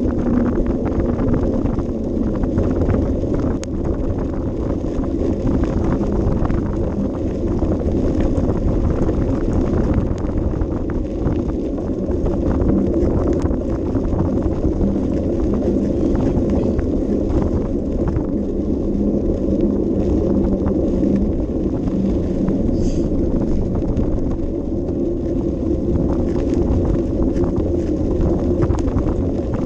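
A bicycle rolling along an unpaved path, its tyres crunching over gravel and its frame making many small irregular rattles and knocks, over a steady wind rumble on the microphone.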